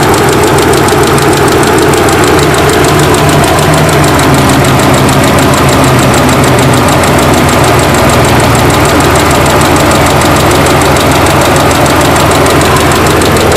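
Engine idling with a rapid, even ticking or knocking. The owner is unsure whether it is a lifter tick or a spun bearing.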